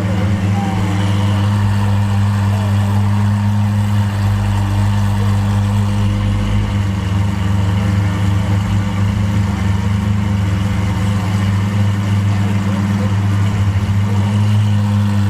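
Car engine idling steadily with a deep, even low hum that holds the same pitch throughout.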